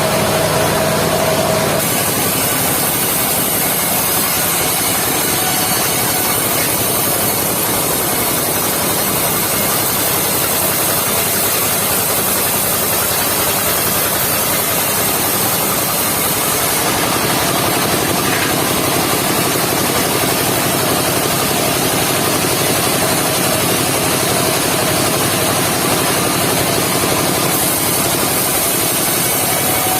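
Engine of a travelling circular-saw sawmill running steadily.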